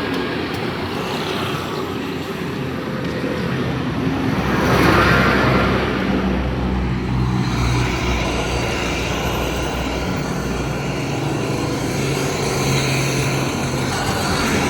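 Street traffic: a motor vehicle's engine running close by with a steady low hum, and a vehicle passing about five seconds in.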